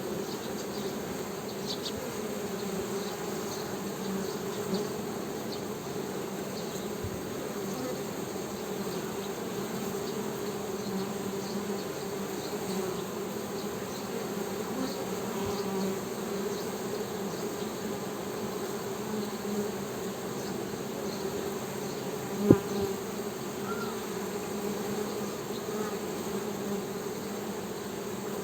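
Honey bees humming in a steady drone. A single sharp click cuts through about three quarters of the way in.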